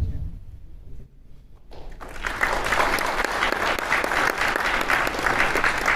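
The last of the video's music fades out, and after a short lull an audience breaks into applause about two seconds in, clapping steadily from then on.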